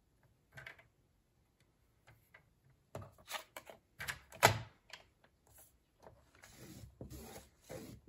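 Paper trimmer in use on cardstock: a few clicks and knocks, the loudest about four and a half seconds in, then a couple of seconds of scraping as the blade carriage slides along the paper.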